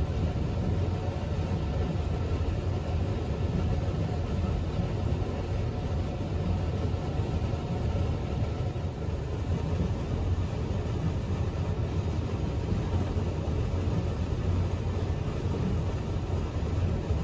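Odakyu Romancecar electric train heard from inside its front observation cabin: a steady low rumble of the train running along the track.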